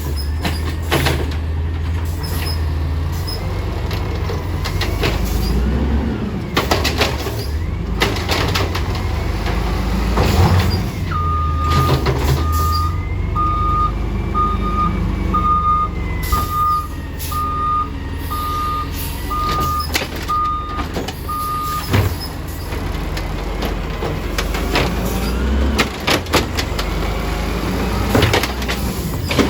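Garbage truck working a collection stop: its engine running steadily under repeated bangs and knocks from the automated arm and bins. In the middle a reversing alarm beeps about once a second for roughly ten seconds.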